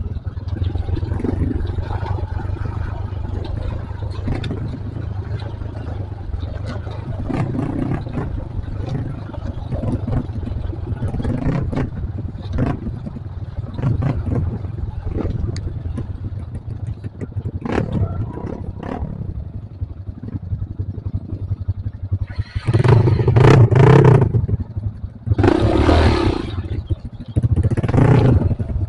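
Trail motorcycle engine running while the bike is ridden over a rough offroad track, with irregular clattering and knocking from the bike over the rough ground. Near the end the sound swells in three louder surges.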